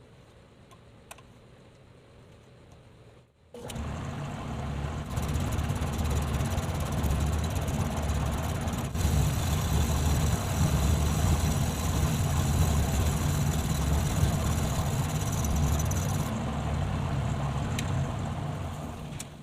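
Homemade lathe's electric motor switched on, running steadily with a low hum, then winding down near the end.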